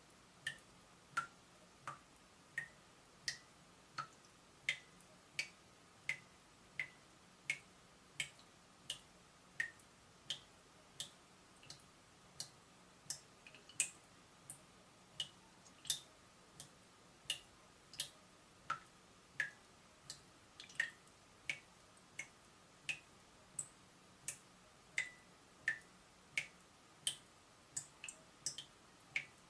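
Water dripping from a leaking tap, a drop about every 0.7 seconds, each landing as a short plink whose pitch varies from drop to drop.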